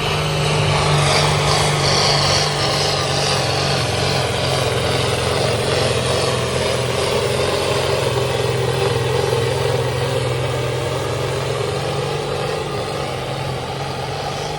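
Pulling tractor's engine running hard under load, a loud steady drone that eases off slightly toward the end.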